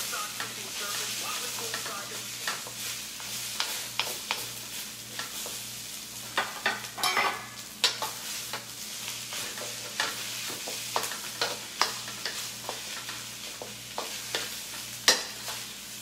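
Fried rice sizzling in a wok while a spatula stirs and tosses it, with irregular sharp clacks and scrapes of the spatula against the wok over a steady frying hiss.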